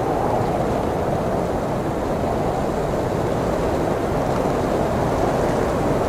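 Heavy blizzard wind blowing, a steady low rushing noise with no gusts or breaks.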